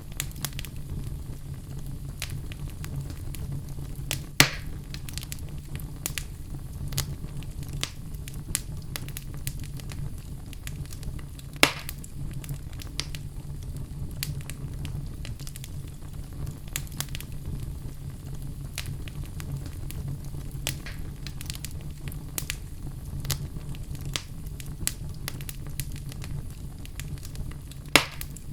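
Wood fire burning in a fireplace: a low steady rumble with continual crackling and popping of the logs, and three louder pops, about four seconds in, about twelve seconds in and near the end.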